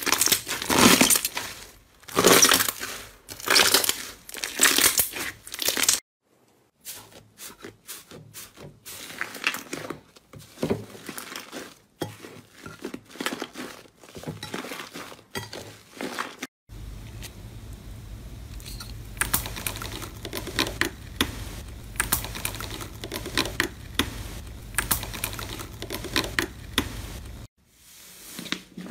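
Slime being squeezed, pressed and poked by hand, giving wet crackling, popping and crinkling sounds across several short clips. The first clip has loud squeezes about once a second, and a steady low hum runs under a later clip.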